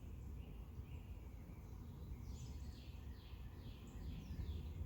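A songbird singing a run of about five quick down-slurred notes, starting about two seconds in, over a low steady rumble.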